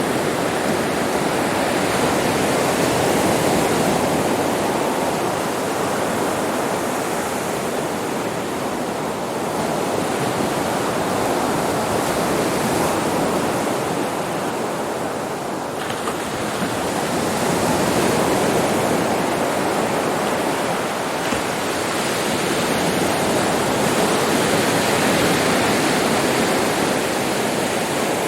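Sea waves breaking on a beach: continuous surf that swells and ebbs slowly, dropping off around the middle and building again.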